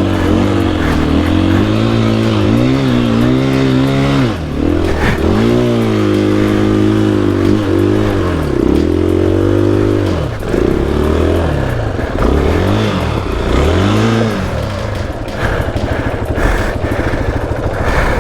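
KTM EXC-F 500 dirt bike's single-cylinder four-stroke engine, revved up and down over and over as the throttle is worked. Over the last few seconds the engine drops to a lower, steadier run under rattling and knocks.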